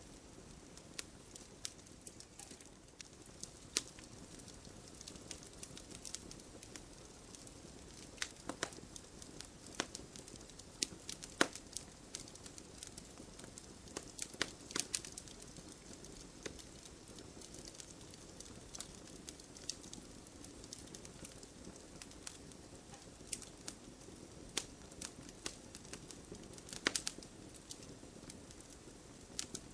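Wood fire burning in a fireplace: a steady soft hiss with irregular sharp crackles and pops, a few louder snaps in clusters.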